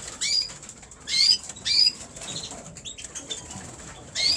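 Caged red mosaic canaries giving short, sharply rising chirps, several in the first two seconds and another near the end.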